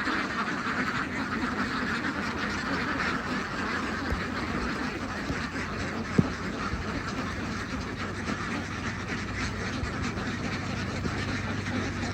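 A large flock of domestic ducks quacking continuously, many birds calling over one another in a steady chorus, with a single short knock about six seconds in.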